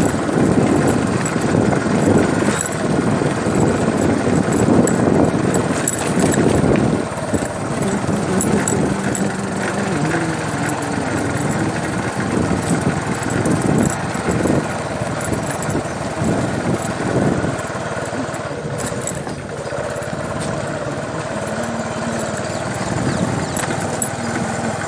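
A motor vehicle's engine running continuously, its pitch shifting up and down.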